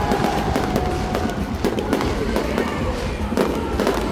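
Fireworks going off in quick succession: a dense run of bangs and crackles over a low rumble.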